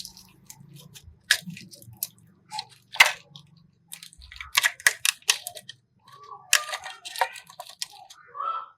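Irregular sharp clicks and taps over a low hum that fades out about halfway through.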